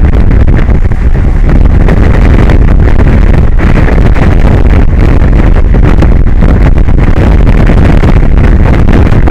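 Strong wind buffeting an exposed microphone: a loud, continuous rumbling rush, heaviest in the low end.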